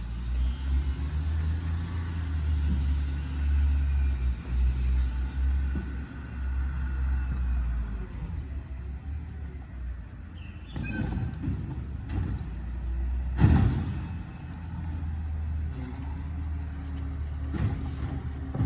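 Garbage truck's diesel engine running with a heavy low rumble while it picks up bins. Several sharp clanks come in the second half, the loudest about 13 seconds in.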